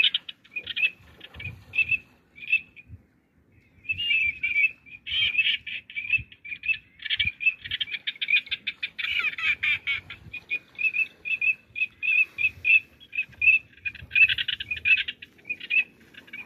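Small birds chirping in rapid runs of short, repeated high notes, with a pause of about a second near three seconds in. Faint low thumps sound underneath.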